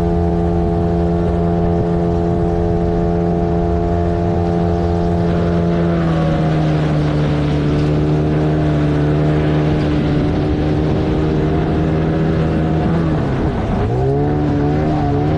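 A 15 hp outboard motor runs at speed, pushing a small inflatable boat, with a steady engine note. About six seconds in, the pitch drops a little and holds. Near the end it dips sharply and climbs back, wavering.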